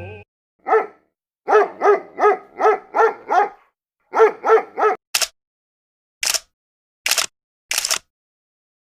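A dog barking in quick short barks: one, then a run of six, then three more. After the barks come four short sharp clicks, roughly a second apart.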